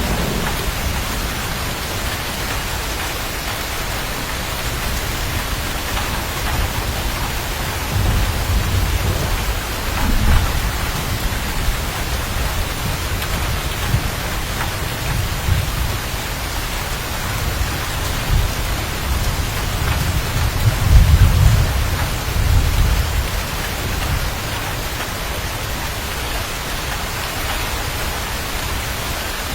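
Steady heavy rain with rolls of thunder, a rumble building about a third of the way in and the loudest one about two-thirds through.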